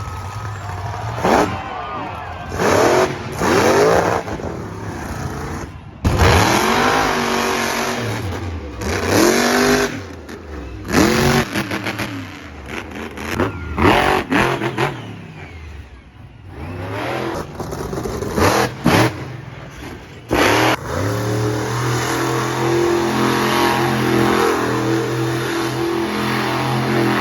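Monster truck engine revving hard again and again, its pitch climbing and falling with sudden cutoffs between runs. It settles into a steady run for the last several seconds.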